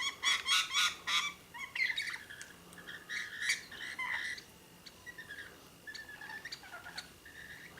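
Wild birds calling: a dense burst of harsh squawks and chirps at first, thinning to scattered, fainter chirps in the second half.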